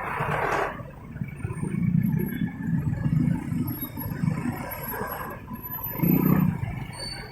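Motorcycle engine and surrounding road traffic heard from the moving bike, a low rumble that rises and falls. A rush of wind noise fills the first second.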